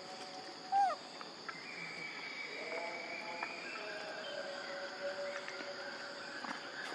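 Evening chorus of insects, a steady high chirring with several held tones, and one short, loud, curving animal call a little under a second in.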